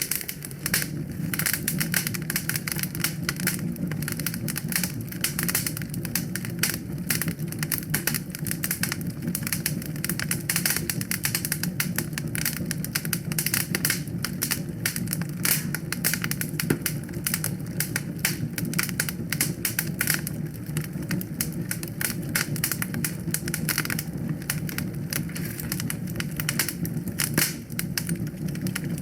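Wood fire crackling and popping densely and without pause over a steady low rumble.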